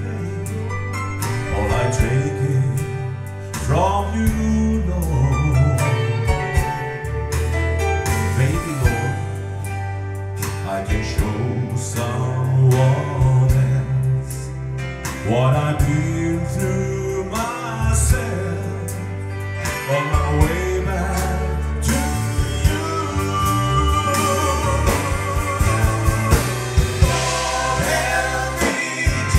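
A singer performing a slow country-gospel song with guitar and band accompaniment over a steady bass line.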